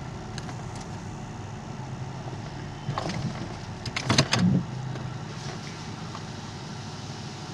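Steady low rumble inside a car in an automatic car wash, with a few sharp knocks and bumps from inside the car about three seconds in and again, louder, around four seconds in.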